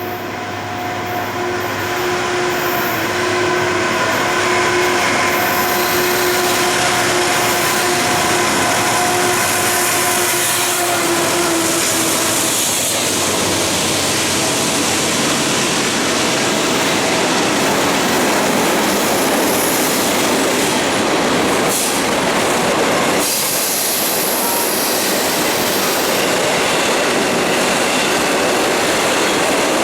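A Norfolk Southern freight train, led by GE diesel locomotives, passes close by, growing louder over the first few seconds. The locomotives give a steady droning hum with held tones for about the first twelve seconds. After that the rumble and clatter of the rolling cars take over.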